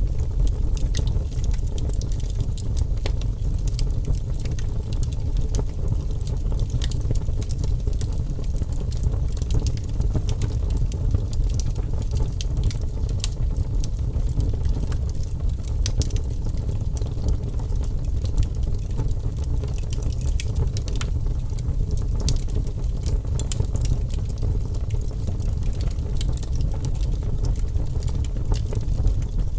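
Wood fire burning in a fireplace with a steady low roar of the flames and scattered crackles and pops throughout.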